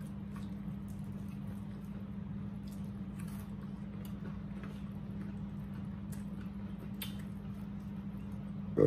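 Close-up eating sounds of people chewing and picking at fried chicken: soft squishy chewing and scattered small mouth clicks over a steady low hum.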